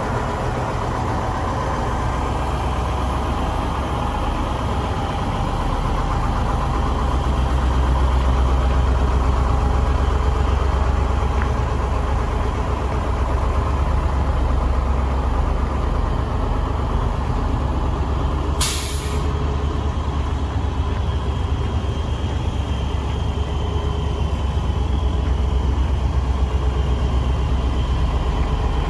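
1987 Chevrolet flatbed truck's engine running steadily with a deep low rumble, and a short hiss about two-thirds of the way through.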